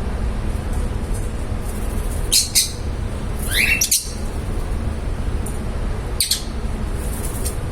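Pet love birds giving a few short, high chirps and a squawk, spaced a second or more apart, over a steady low rumble.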